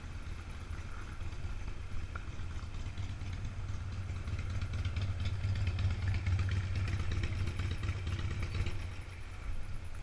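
A vehicle engine running with a low rumble as it passes, growing louder past the middle and dropping off near the end.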